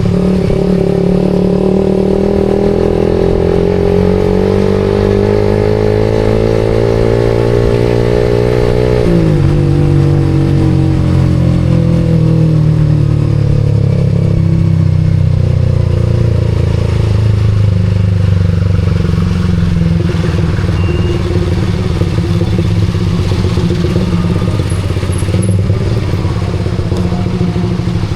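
Suzuki GSX-R150's single-cylinder four-stroke engine through an aftermarket SARP exhaust, pulling steadily up through the revs for about nine seconds, then dropping suddenly in pitch and running on at lower, fairly even revs.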